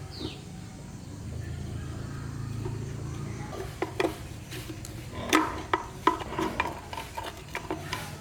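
A run of sharp metallic clinks and knocks, a dozen or so irregularly spaced, some ringing briefly, from metal objects being handled and set down. A faint low hum comes before them.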